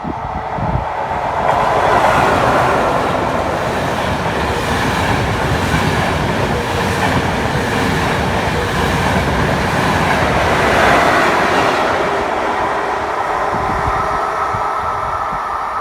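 A train passing through a station, steel wheels rolling on the rails. The noise swells about a second and a half in, stays loud, and eases off near the end.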